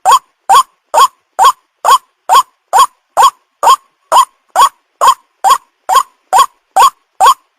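Young white-breasted waterhen (ruak-ruak) call used as a bird lure: a short note rising sharply in pitch, repeated evenly about twice a second.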